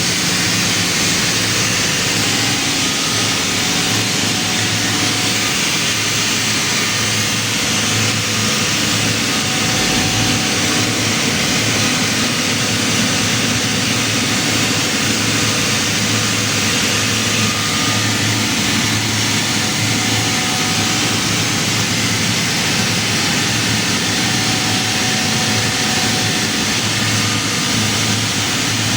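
Kaeser industrial air compressor running steadily: a constant loud hiss over a low hum that pulses slightly.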